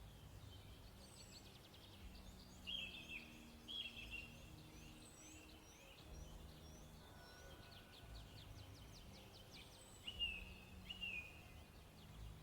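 Faint bird calls in natural ambience: several short falling chirps, a pair near 3–4 s and another near 10–11 s, with quick ticking trills between them.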